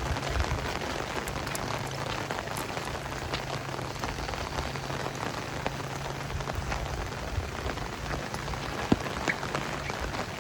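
Steady heavy rain falling, with scattered drops tapping close by and one sharper tap about nine seconds in.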